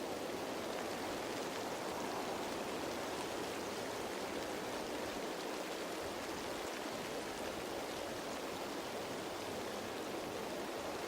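Steady rain falling on leaves, a dense even patter of raindrops.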